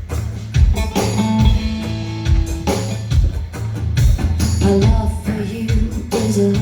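Live band playing a blues-rock song: drum kit keeping a steady beat under bass and electric guitar, with bending melodic lines over the top.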